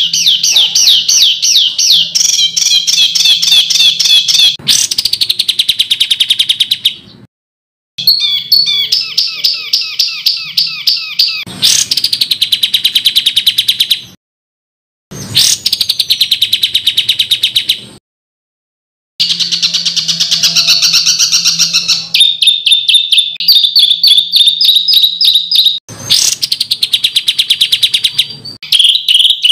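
A songbird singing loud, harsh phrases of fast repeated notes, the 'tembakan kasar' (rough shot) style of song, in bursts of a few seconds broken three times by short gaps of dead silence where the recording is cut.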